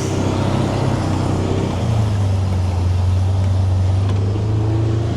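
Motor vehicle engine running steadily, a low drone whose pitch settles a little lower about two seconds in.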